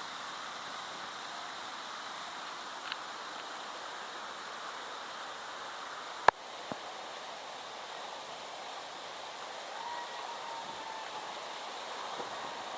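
Steady rushing water, an even wash of noise. A single sharp click sounds about halfway through.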